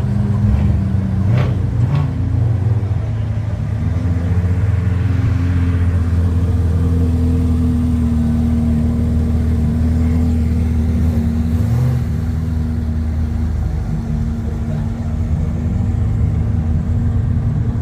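A car engine running with a steady low rumble, its pitch shifting slightly a couple of times.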